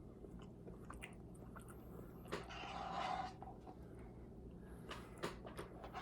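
Close-miked chewing and mouth sounds of someone eating a Blizzard of soft-serve with cookie pieces, with scattered sharp clicks. A short, louder noisy stretch comes about two and a half seconds in.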